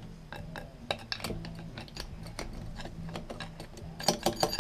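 Irregular light clicks and knocks of metal compressor parts being handled and set down, with a quick cluster of sharper clinks near the end.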